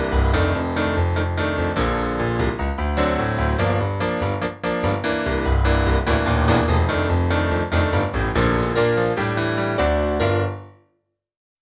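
Kawai ES120 digital piano played: a busy passage of many quick notes over a heavy bass line, dying away to silence about a second before the end.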